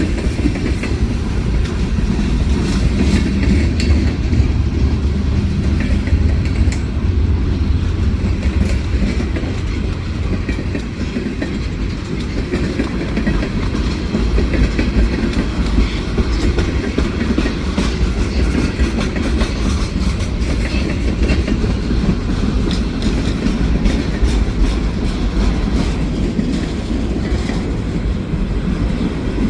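Freight train cars rolling past close by: a steady heavy rumble with wheels clacking over the rail joints.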